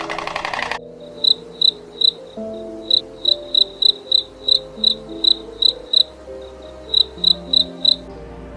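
A loud rapid buzzing cuts off just under a second in. Short high-pitched chirps follow, repeated about three times a second, with soft background music underneath.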